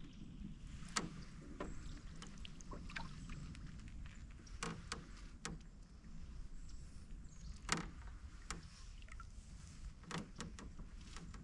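Canoe paddling: irregular small knocks, taps and drips of the paddle against the hull and water, about a dozen in all, the sharpest about three-quarters of the way through, over a low steady rumble.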